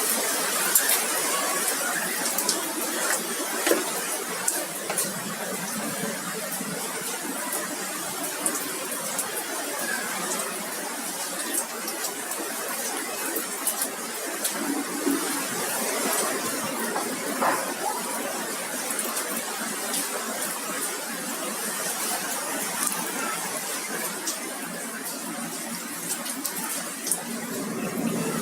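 Rain falling with hail: a steady hiss of rain, with irregular sharp clicks of hailstones striking hard surfaces.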